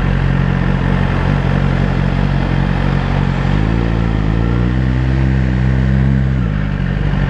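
Suzuki GSX-R1000's inline-four engine through its Yoshimura exhaust can, running steadily while the bike rolls in traffic. About three and a half seconds in it revs up through a gear change, holds, then drops back near the end as the throttle is eased off.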